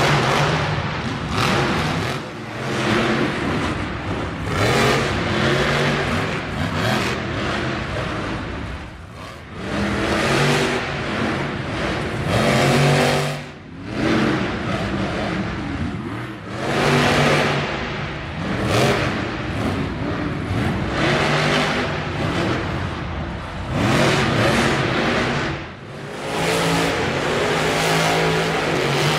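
Monster truck engine revving hard over and over, its pitch climbing and falling every second or two, with a few short drops between runs.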